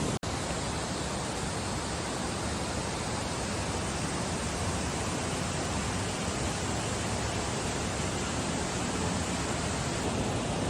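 Steady rush of falling water from a mountain stream or waterfall, an even hiss with no rhythm, briefly cutting out just after the start.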